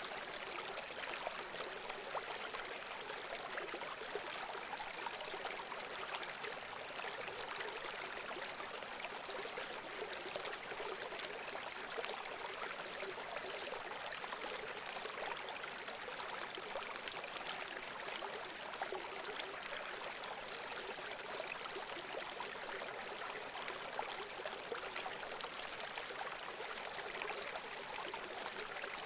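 Water running and trickling steadily, like a small stream, an even rushing hiss that does not change.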